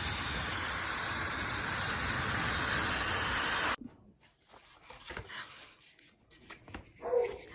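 Dyson Supersonic hair dryer blowing with a steady hiss, switched off abruptly about four seconds in, followed by a few faint handling clicks.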